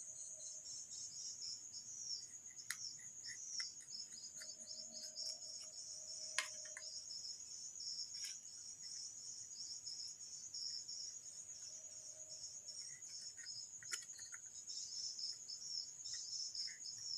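Insects chirping steadily in a continuous high-pitched trill, with a few faint clicks from work on the bench.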